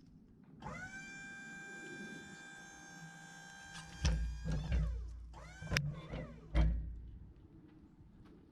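Electric hydraulic pump motor on a Wood-Mizer LT40 sawmill whining: it rises in pitch as it starts, holds steady for about four seconds, then winds down. Heavy low thumps follow about four, five and a half and six and a half seconds in.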